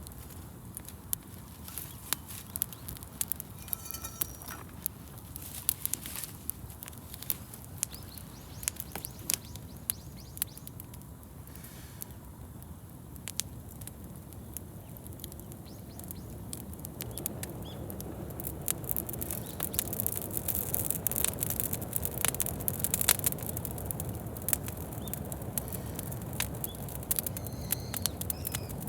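Wood campfire crackling with irregular sharp pops and snaps over a low rush of flame, the rush growing louder past the middle. A short bird chirp sounds about four seconds in.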